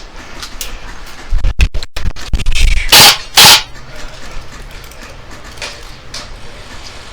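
Airsoft gunfire: a few scattered sharp pops, with two loud bursts close together about three seconds in, over wind buffeting the camera microphone.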